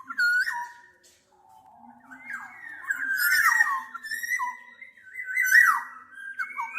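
Black-naped oriole giving fluty, whistled song phrases with pitch glides: a short phrase at the start, then two longer phrases after a brief pause.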